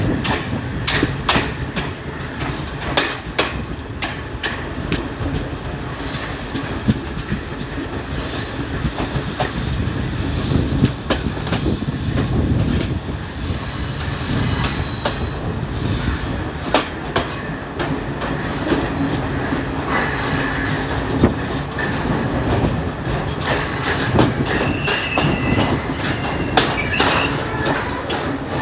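Local commuter train running on the rails, heard on board: a steady rumble and rattle with sharp clicks of the wheels over the rail joints. High-pitched wheel squeal comes in about six seconds in and again near the end.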